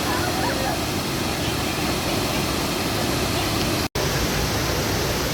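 Waterfall rushing: a steady, even roar of falling water, broken once by a momentary cut a little before four seconds in.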